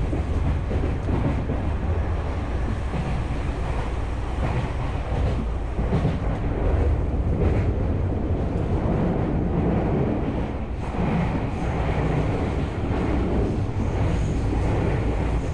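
Tokyu Oimachi Line electric train running at speed, heard from inside the passenger car: a steady rumble of wheels on rail with wind noise.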